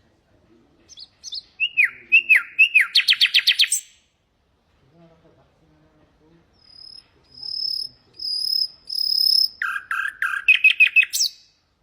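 Nightingale singing. A phrase of falling notes runs into a fast trill, then a pause. Four long, high, pure whistles follow, then another rapid burst of repeated notes.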